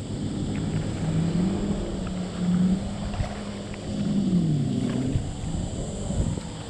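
A boat engine running, its pitch rising and falling over several seconds, over a low wind rumble.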